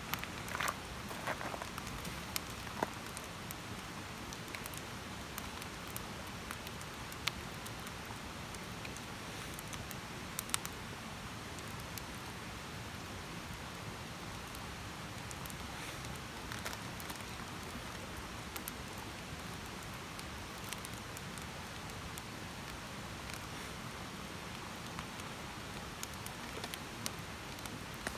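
Wood campfire burning: a steady hiss of flames with scattered sharp crackles and pops every second or few seconds.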